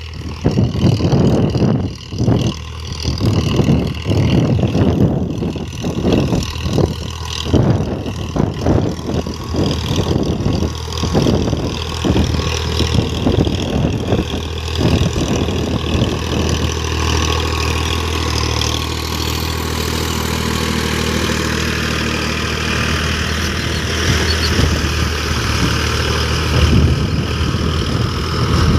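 An engine running, uneven with irregular bursts for the first half or so, then steadier.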